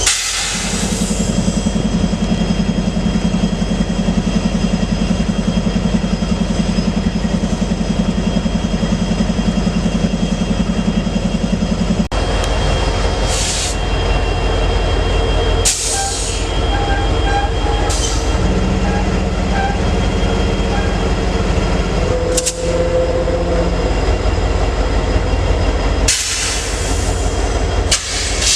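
Freight train passing: a steady low diesel locomotive drone for about the first twelve seconds, then the cars rolling by with a continuous rumble and a few short hisses.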